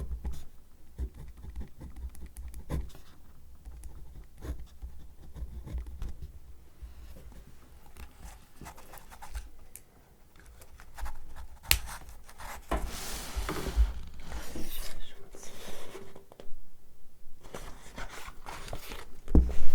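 Paper being handled close to the microphone: light scratches and taps at first, then several bursts of crinkling rustle in the second half.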